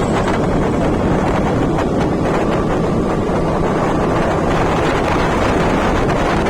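Steady wind noise buffeting the microphone, with a low rumble underneath, as when travelling at speed.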